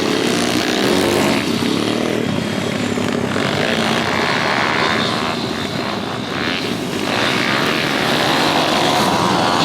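Pit bike engines racing, loud and continuous, their pitch rising and falling as the riders rev through the gears.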